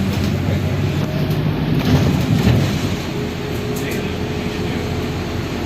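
Bus running with a steady low rumble heard from inside, swelling louder about two seconds in, with people talking.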